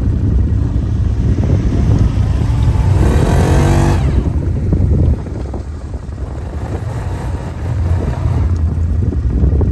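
Quad bike engine running under load, revving up about three seconds in and easing off just after five seconds, then picking up again near the end.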